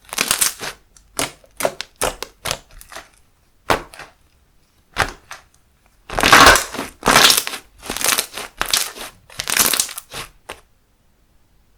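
Handmade slime being squeezed and pressed by hand: a string of short sharp clicks and pops, then four longer, louder bursts about a second apart, stopping shortly before the end.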